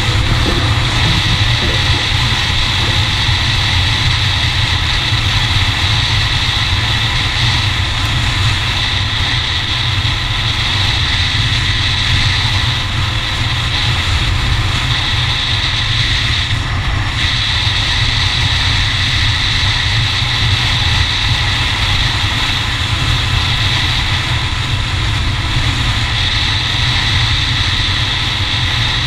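Yamaha TW200 dirt bike's single-cylinder engine running steadily under way, with heavy wind rumble on the microphone.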